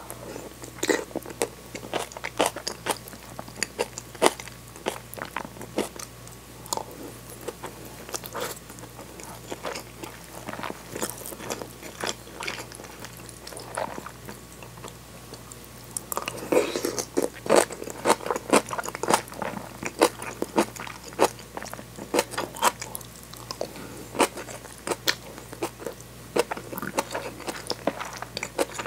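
Close-miked chewing and biting of cold tofu with kimchi, soft-boiled egg and rice: a run of short, sharp, wet clicks and crunches, busiest and loudest a little past halfway.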